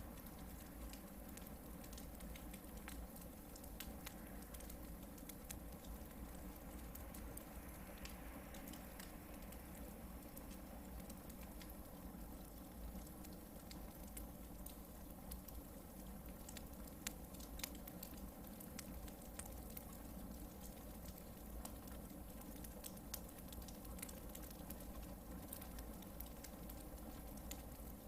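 Hardwood campfire burning: a faint, steady low rumble with scattered small crackles and pops from the burning logs, one louder pop about seventeen seconds in.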